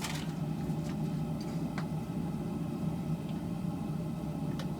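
Steady low hum of running shop equipment, with a few faint ticks.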